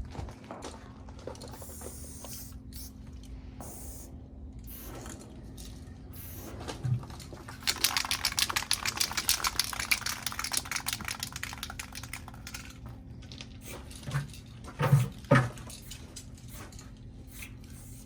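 Aerosol spray paint can spraying in a quick run of short hisses for about four seconds, starting about eight seconds in. A few dull thumps come before and after, the loudest two near the end.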